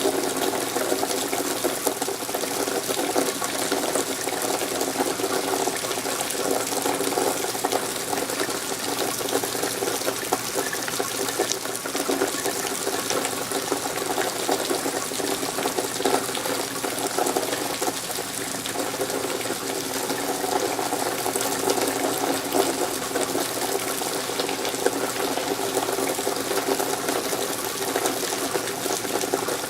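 Steady rain falling, a dense continuous patter and splash with no let-up.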